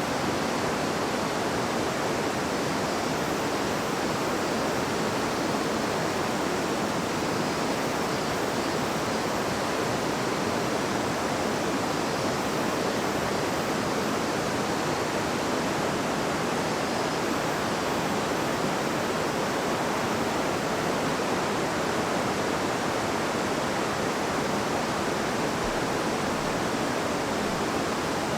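River water flowing and babbling over stones: a steady, even rush of water.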